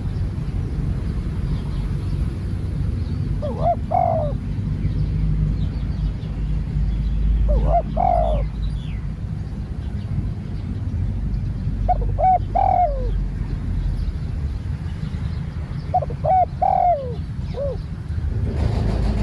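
Spotted dove cooing: a short phrase of several notes, given four times about four seconds apart, over a steady low rumble. A broader noise, like a passing vehicle, swells in near the end.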